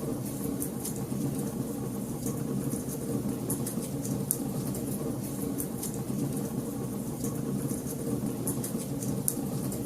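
Wood fire burning in a fireplace: a steady low rush of flame with sharp, irregular crackles and pops, a few each second.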